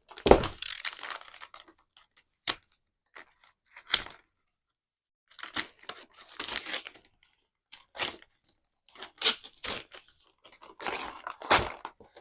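A parcel's wrapping being torn open by hand in a series of irregular rips and crinkles, with short pauses between them and the loudest rips near the end.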